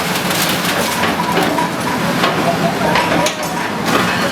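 A heavy engine running steadily, with a clatter of repeated knocks and cracks over it.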